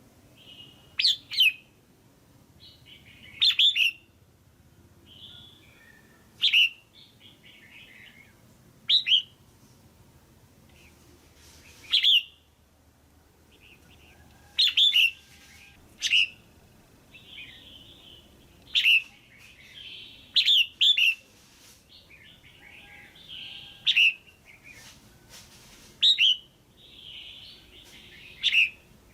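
Red-whiskered bulbul calling: loud, short, sharp calls every two to three seconds, several in quick pairs, with softer chattering between them. It is a female's call, of the kind played to excite a male bulbul or to bring a pair together.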